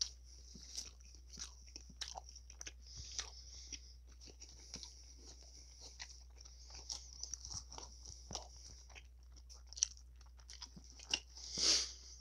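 Close-miked chewing of a lamb gyro in soft pita bread: wet mouth clicks and small crunches over a faint steady hiss, with one louder, longer sound near the end.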